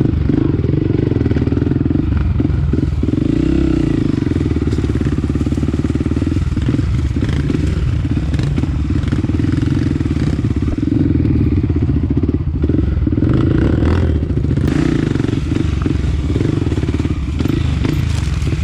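Honda CRF250F dirt bike's single-cylinder four-stroke engine running steadily, its note swelling and easing a few times, with occasional short knocks and clatter.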